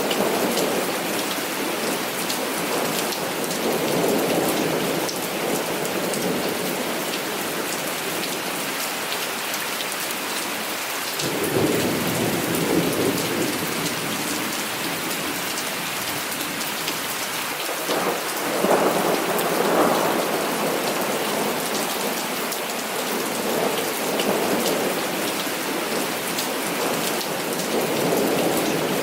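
Heavy rain falling steadily, with rolls of thunder rumbling under it. The strongest claps break in suddenly about a third of the way in and again about two-thirds of the way in.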